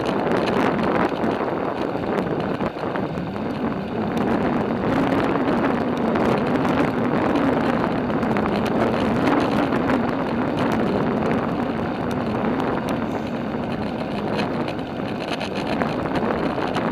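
Steady rushing noise of a bicycle being ridden: wind on the microphone and tyre noise, with a faint humming tone that wavers in pitch and small rattling clicks.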